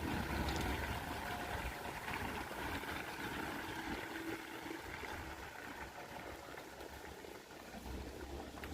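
Steady wash of rain and wet-street noise, with low wind gusts buffeting the microphone, strongest in the first couple of seconds and again near the end.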